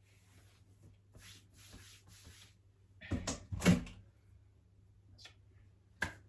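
Quiet handling noises: faint rustling, a louder cluster of short knocks and scrapes a little past halfway, and a sharp click near the end.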